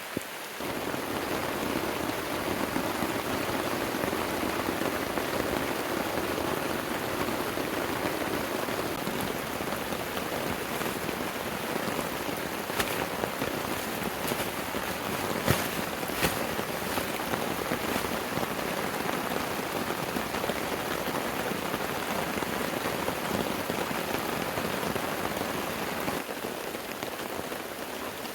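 Heavy rain falling steadily, stepping up louder about half a second in and easing slightly near the end, with a few sharp taps partway through.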